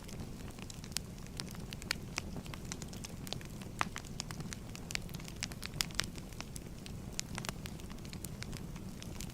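Firewood burning with a steady low rumble and frequent irregular sharp crackles and pops.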